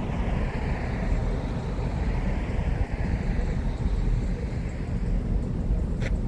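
Steady low rumble and hiss of outdoor background noise, with one short click about six seconds in.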